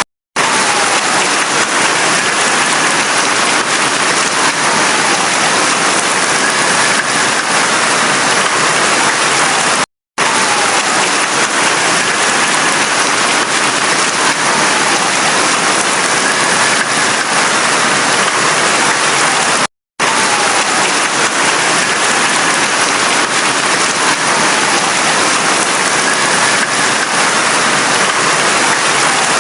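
Heavy rain pouring steadily. It cuts out to silence for a split second three times, about every ten seconds, where the recording loops.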